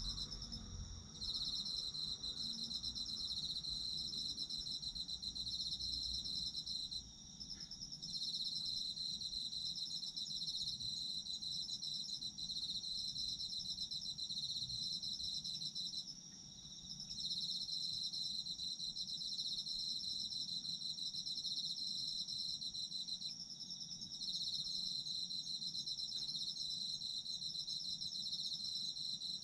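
Autumn insects chirring together in a dense chorus of fast-pulsed trills: a higher trill runs on without a break, while a lower one sings in long phrases with short pauses about four times.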